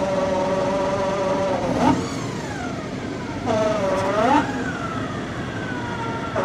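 A loud, siren-like whine from a 2014 Dodge Challenger with the 3.6 L Pentastar V6: it holds one pitch, bends sharply up twice, and then slides slowly down. A new noise of unknown cause that began when the car sounded like gears slipping under throttle.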